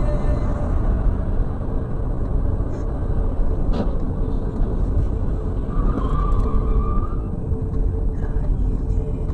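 A moving car's steady engine and road rumble, with one sharp click about four seconds in.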